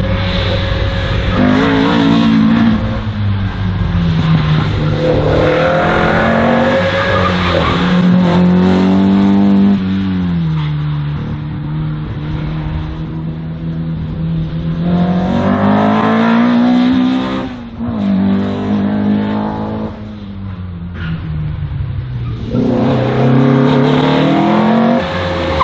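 Race car engine on an autoslalom course, revving up and dropping back about four times as the car accelerates and slows, with short lifts between.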